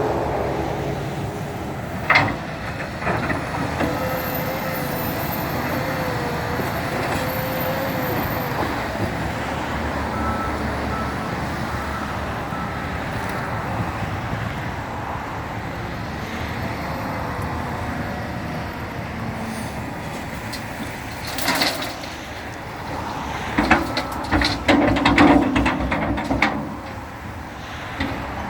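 Tractor loader's engine running steadily, with a wavering whine in the first third and a run of sharp knocks and clatter near the end.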